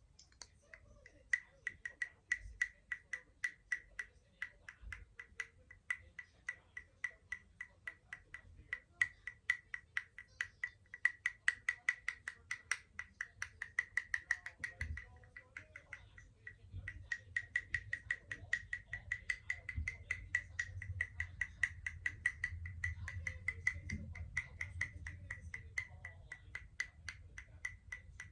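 Rapid, even tapping on a hard makeup container or compact, about four to five taps a second, each tap with a short ringing note. The tapping stops for about a second two-thirds of the way through, then starts again.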